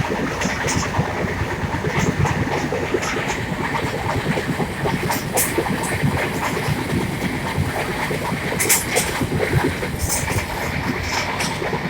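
A train running along the track: a steady rumble and clatter of wheels on the rails, with short, sharp high clicks every second or two.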